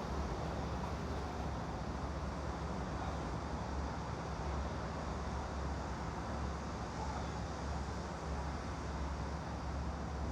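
Steady background ambience of white noise: a constant low hum under an even hiss, with no distinct events.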